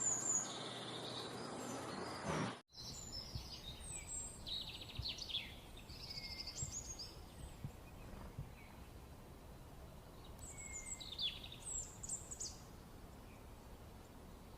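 Wild birds calling in several bouts of short, high chirps and trills over a steady background hiss. The sound drops out for a moment a little over two seconds in.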